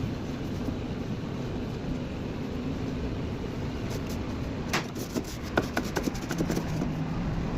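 Steady mechanical running hum, with a quick series of sharp clicks and taps about five seconds in.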